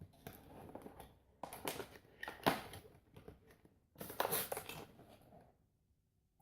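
Packaging of a boxed model airplane being opened and handled: bursts of rustling and crinkling, with a sharp snap about two and a half seconds in, dying away near the end.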